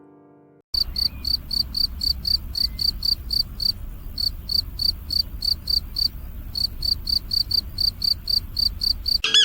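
An animal chirping in a steady, even rhythm of short high-pitched chirps, about four a second, with two brief pauses, over a low rumble; it starts suddenly under a second in.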